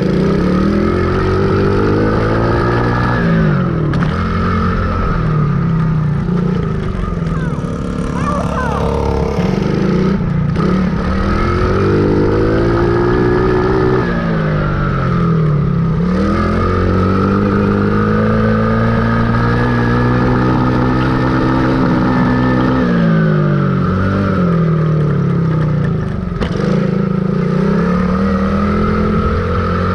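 Dirt bike engine running under riding, its pitch climbing and then dropping several times as it speeds up and eases off.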